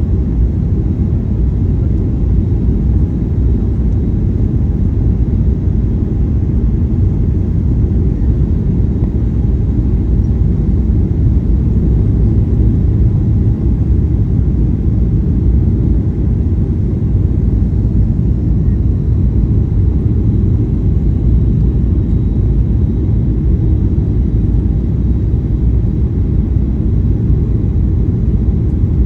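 Steady cabin noise inside a Boeing 737 airliner: a loud, even, low rumble of engines and airflow with no sudden changes.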